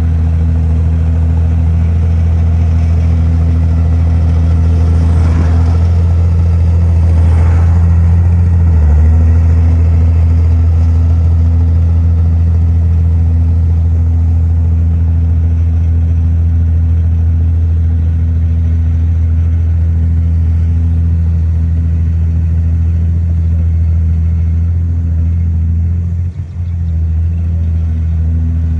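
Heavy diesel engine of earthmoving machinery running steadily under load, with a short dip in level near the end.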